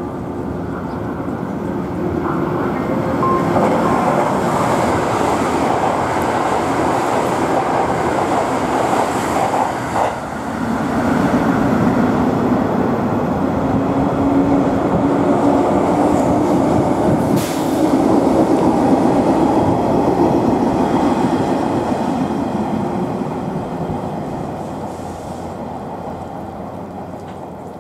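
JR West electric trains running through the station: a 225-series electric multiple unit approaches with a steady rumble of wheels and running gear. After a break about 10 s in, the rumble goes on with a steady hum and a sharp click midway, then fades toward the end.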